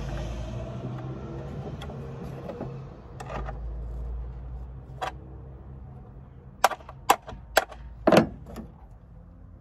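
Sharp clicks and knocks of plastic car parts being handled and pressed together while a tail light is fitted: about six in the second half, two close together near the end. Under them a low rumble fades over the first few seconds.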